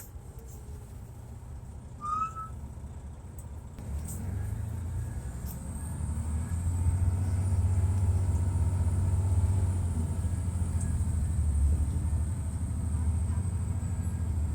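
2002 MCI D4000 coach's Detroit Diesel Series 60 engine running with a low rumble that grows louder about four seconds in and again about six seconds in, then holds, with a thin high whine that climbs and then stays steady. A short high chirp sounds about two seconds in.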